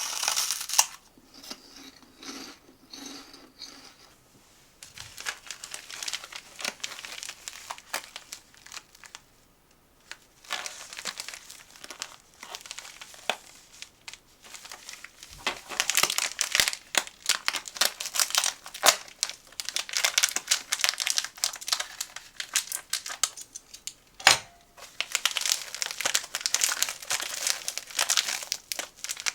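Plastic snack packaging crinkling and tearing as it is handled and opened, in bursts with short pauses and a sharp snap near the end.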